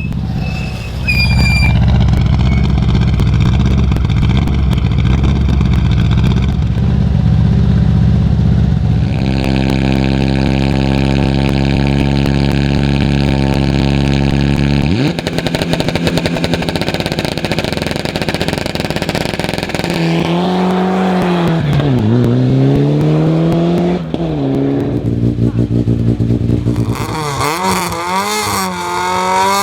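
Rally car engine running loud, first held at steady revs for several seconds, then revved down and up a few times, with quick rev blips near the end.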